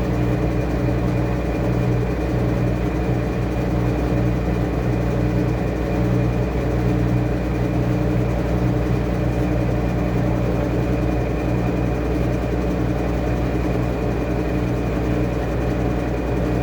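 Washing machine running steadily, its motor giving a constant low hum with a faint high whine.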